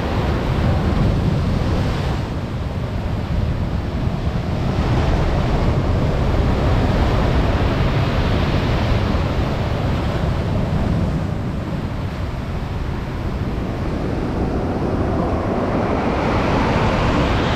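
Storm surf breaking, a loud steady rush of waves that swells and eases several times, with a surge building near the end. Wind buffets the microphone throughout.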